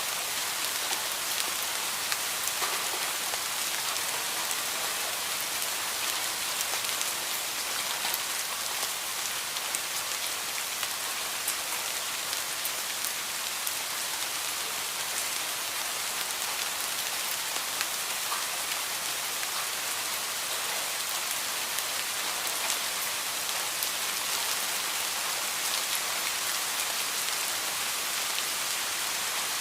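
Heavy rain falling steadily, a dense hiss of drops with fine individual patters on surfaces.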